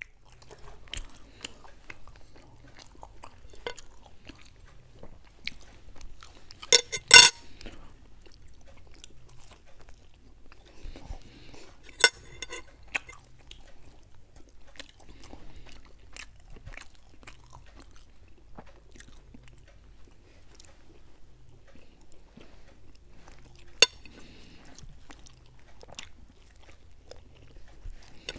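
Close-miked chewing and crunching of fried Mughlai paratha, with many small sharp clicks and three louder sharp bursts spread through.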